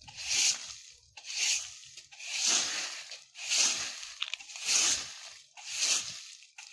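Broom sweeping dry fallen leaves: six rustling strokes, about one a second, each a brief scratchy swish.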